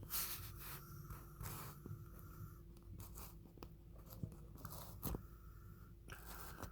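Faint handling noise: scattered rustles and short clicks, over a low steady hum.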